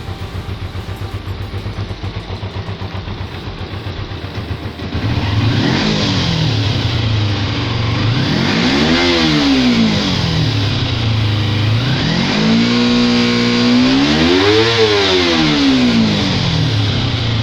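Motorcycle engine idling with a pulsing beat, then revved harder about five seconds in: the pitch climbs and falls back twice, with a brief held rev between the two peaks.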